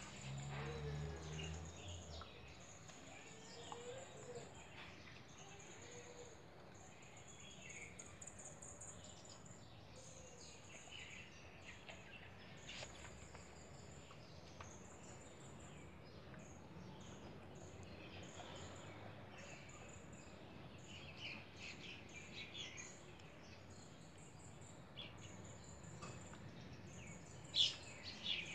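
Faint bird chirping, short high calls repeating every second or so, with a few soft clicks and one brief louder noise near the end.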